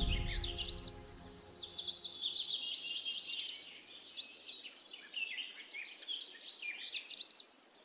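Birds chirping and singing: a busy run of quick whistled notes sweeping up and down, with several calls overlapping.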